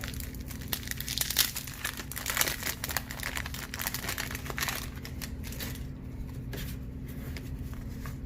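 Crinkling and tearing of a baseball-card pack wrapper being handled, crackling busily for the first few seconds and then thinning out.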